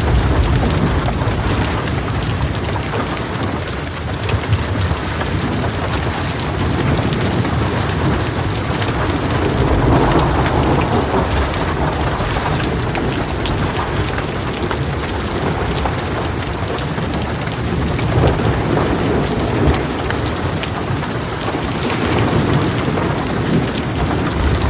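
Heavy rain drumming steadily on a metal roof, with sharp drop ticks, and low rolling thunder that swells a few times: near the start, about ten seconds in, and again toward the end.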